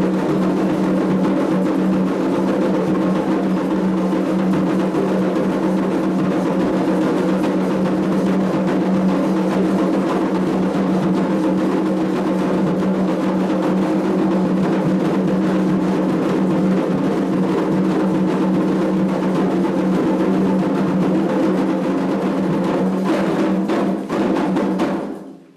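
Candomblé ritual drumming on atabaque hand drums, a dense continuous rhythm over a steady low drone, stopping abruptly at the very end.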